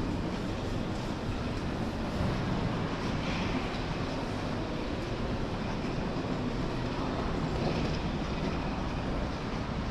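A rail vehicle running, heard as a steady low rumble with a hiss over it and no sharp events.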